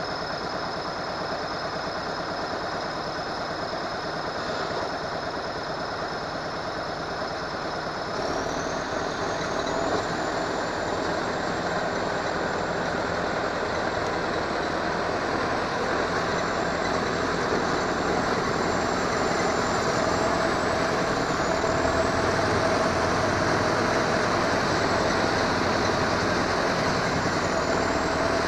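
KAMAZ diesel truck engine running, getting louder about eight seconds in and building further toward the end as it works harder under load.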